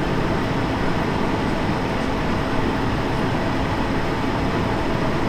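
Steady cabin noise inside an Airbus A220: an even rushing roar of airflow and engines, with a faint steady hum.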